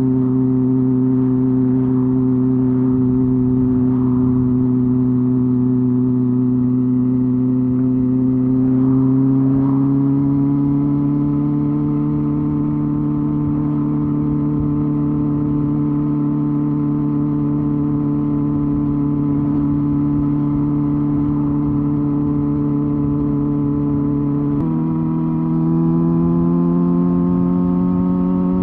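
Honda Hornet 250's inline-four engine and exhaust running steadily under way. Its pitch rises slightly about ten seconds in, steps up suddenly near the end, then keeps climbing.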